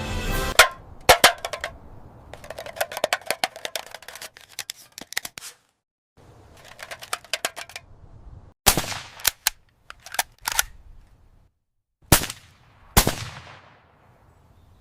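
Gunfire sound effects: quick rapid-fire bursts, then several single loud shots, each with a short fading tail.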